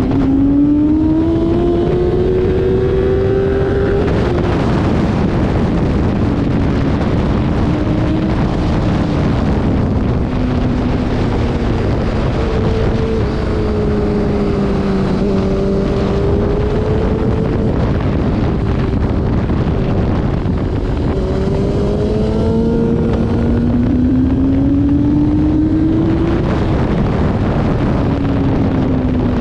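Motorcycle engine running hard on a racetrack over a dense rush of wind noise. Its pitch climbs for the first few seconds, falls slowly through the middle as it eases off, climbs again near the end, then drops.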